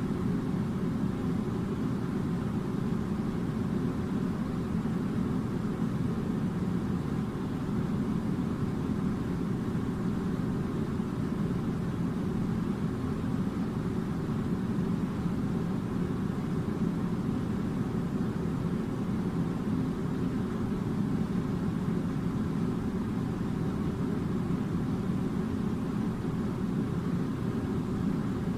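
Air conditioner running, a steady low whooshing hum that does not change.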